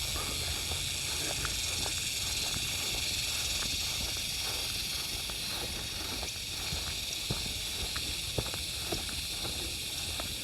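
Insects buzzing steadily in a high, even chorus, with scattered footstep crunches on a trail and a low wind rumble on the microphone.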